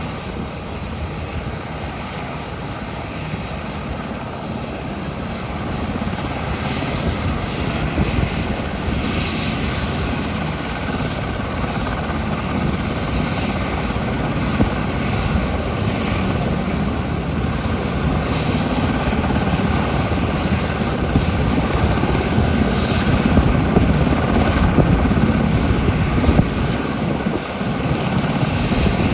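SH-60K maritime patrol helicopter running, its rotor and twin turboshaft engines making a steady rumbling whine that grows gradually louder through the second half.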